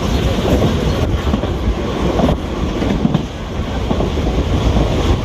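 Train running along the rails, heard from inside the carriage at an open window: a steady rumble with wheel clatter.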